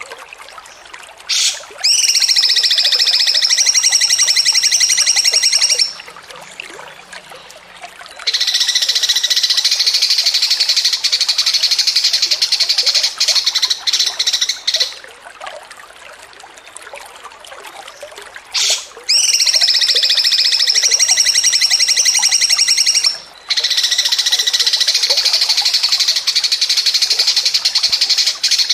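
Small songbird singing long, fast, high trills in a continuous rattling chatter (ngocor), four sustained trills of several seconds each, with short breaks between them.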